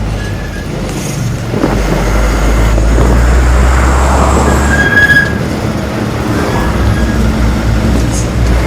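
Heavy truck's diesel engine rumbling steadily, growing louder about a second and a half in and easing off about five seconds in, with a short high squeal near the middle.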